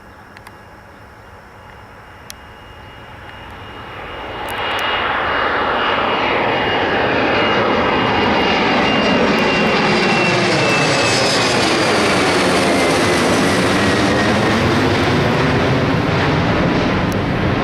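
Jet airliner passing close by: its engine noise swells up about four seconds in and stays loud. A thin high whine slowly falls in pitch as the aircraft goes past.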